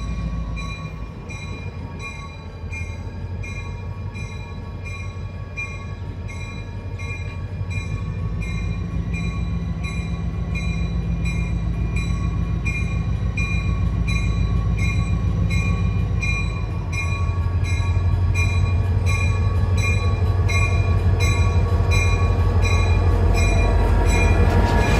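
Train locomotive running with its bell ringing steadily, a little more than once a second, its rumble growing louder as the train draws near.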